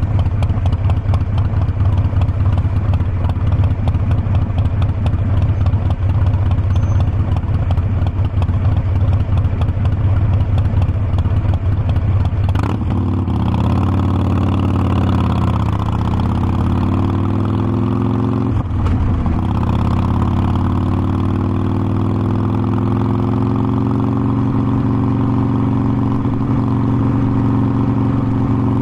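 Harley-Davidson Forty-Eight Sportster's air-cooled V-twin engine running under way. It holds a steady cruise, then gear changes come about halfway through and again a few seconds later, and the engine note dips and climbs as the bike picks up speed toward the end.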